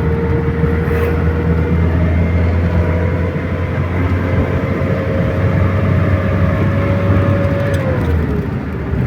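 Engine and road noise inside the cab of a GAZelle light truck driving along. A steady drone carries a thin whine that rises slightly, then slides down in pitch near the end.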